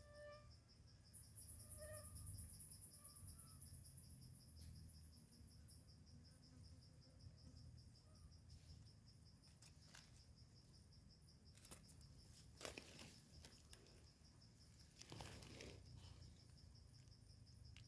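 Faint outdoor insect chorus: a steady fast pulsing trill with a higher buzzing insect for the first few seconds, a few short bird chirps near the start, and two brief bouts of crackling rustle, as of leaves or stems being handled, in the second half.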